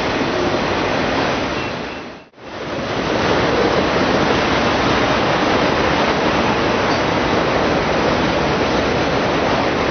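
Steady rushing noise of a freight train rolling past close by. It drops out briefly about two seconds in, then returns at the same level.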